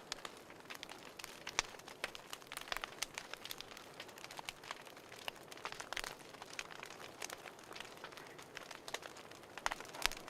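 Wood fire crackling: irregular small pops and snaps over a soft steady hiss.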